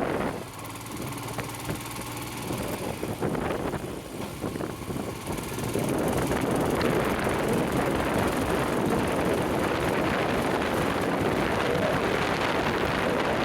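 Hero XPulse 200 4V's single-cylinder engine running while riding, under wind noise on the microphone. For the first few seconds the wind drops and the engine's steady hum comes through more clearly, then the wind noise comes back loud about six seconds in.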